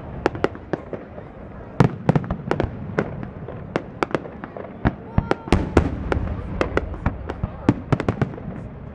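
Fireworks display: shells bursting in a rapid, irregular barrage of sharp bangs, several a second, over a continuous rumble. One of the loudest bangs comes about two seconds in.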